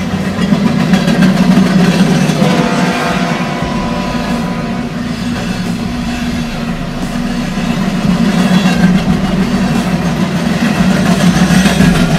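Diesel freight train running past, a steady low rumble that swells, eases in the middle and swells again near the end.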